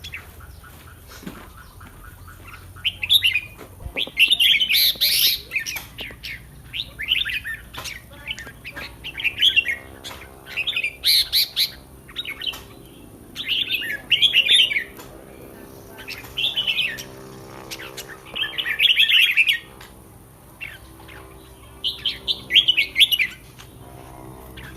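Red-whiskered bulbul singing: short, bright, warbling phrases repeated every second or two, with brief pauses between them.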